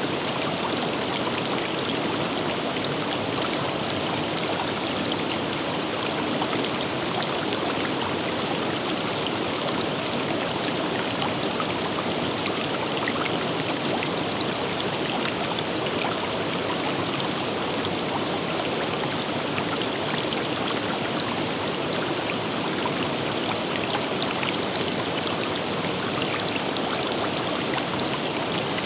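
Steady rush and babble of a river flowing over rocks, with faint splashes throughout.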